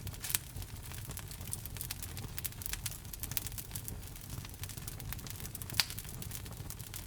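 Wood fire in a fireplace crackling and popping irregularly over a low rumble of the flames, with two sharper pops, one just after the start and one near the end.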